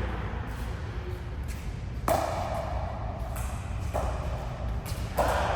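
Three sharp ball strikes in a rally, about two seconds apart, each with a short ringing tail.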